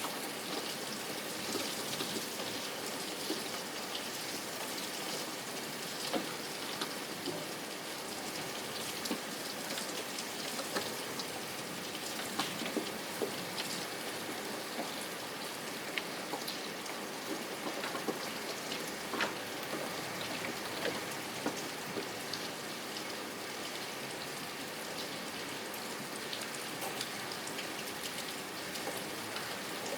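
Steady rain, with separate drops ticking close by.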